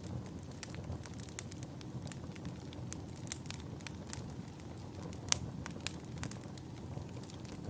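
Wood fire burning in a fireplace: irregular crackling and popping over a low steady rumble, with one sharper pop about five seconds in.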